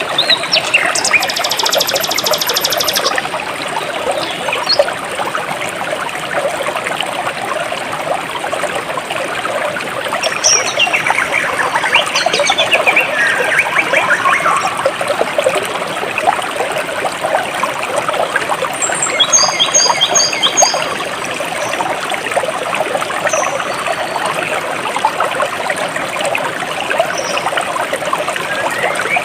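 Jungle stream trickling and splashing steadily, with birds calling over it. There is a high buzzy trill near the start, a series of falling whistles about a third of the way in, and a quick run of repeated short chirps a little past the middle.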